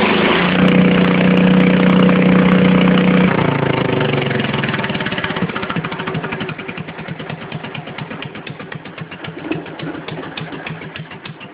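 Stock 10 hp Cub pulling tractor engine held at high revs for about three seconds, then throttled back, the revs falling away to an idle in which each firing pulse can be heard separately.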